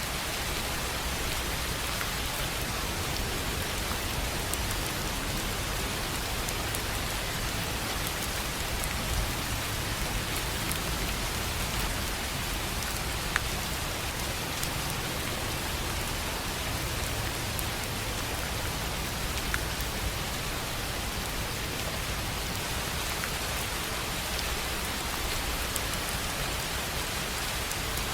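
Steady rain falling on a tin roof: an even patter with a few sharper single drop ticks now and then.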